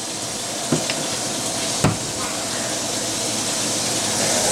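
A steady hissing noise that grows slightly louder, with two light knocks about a second apart.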